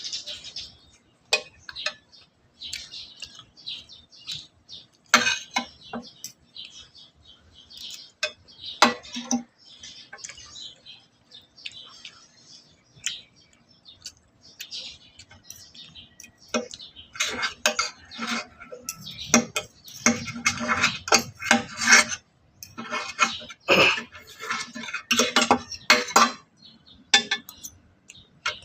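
Eating sounds: utensils clicking and clinking against a plate or bowl, with a busier stretch of close-up eating noises in the second half.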